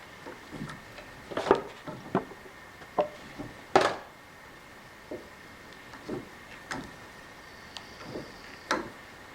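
Hand tap being turned by hand to cut threads in a tight metal hole, giving irregular sharp clicks and creaks about one or two a second, loudest about four seconds in.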